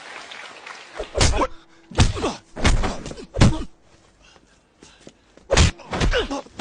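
A series of about six loud thumps, some followed by a falling tone, spread over several seconds after a brief murmur of noise.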